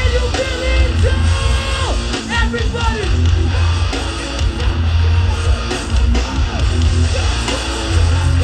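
Hardcore band playing live at full volume: heavy distorted guitar and bass with yelled vocals over the top.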